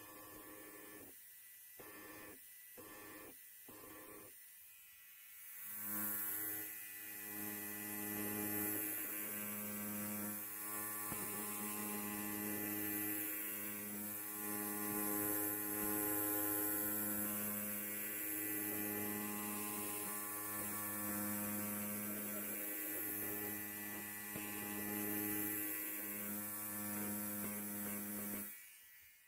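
Electric hair clipper buzzing. It is faint and broken up for the first few seconds, then runs louder and steady from about six seconds in, with a slight pulsing in its hum. It cuts off just before the end.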